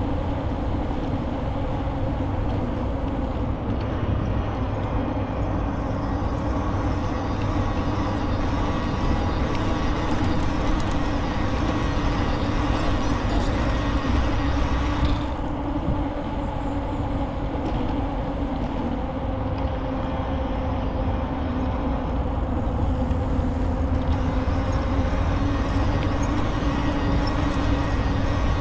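Steady noise of a bicycle in motion: tyres humming on the path under a low rumble of wind on the microphone, unchanging throughout.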